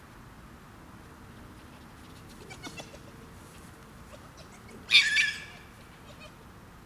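A young animal's (kit's) shrill squeal, loud and harsh, about five seconds in, with a few fainter squeaks a couple of seconds before: kits squabbling over food.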